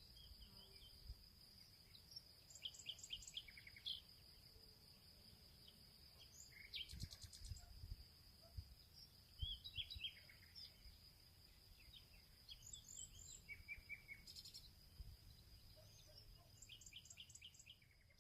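Faint birdsong in a field: several birds chirping in quick series of short notes, over a continuous high, steady insect trill.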